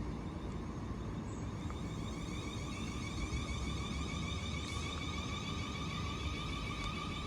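Passenger train at a station: a steady low rumble with a steady high whine on several pitches over it.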